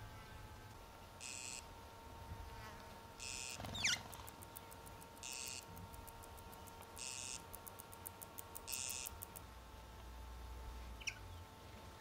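A bird calls a short, high chirp five times, about every two seconds, with a quick downward-sliding whistle just before four seconds in.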